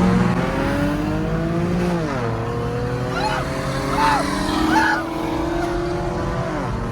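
Car engine pulling hard under acceleration, its pitch climbing steadily and dropping sharply twice, about two seconds in and near the end, as it shifts up a gear.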